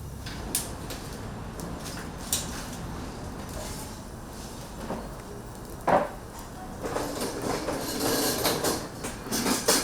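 Kitchen clatter: scattered sharp clicks and knocks, a loud knock about six seconds in, then a busier run of clattering toward the end.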